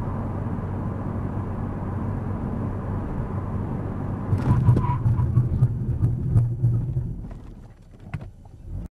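A Ford Focus RS running at speed with a steady low hum. About four seconds in, it turns to louder, uneven rumbling with knocks, which dies away over the next three seconds, leaving a few faint knocks.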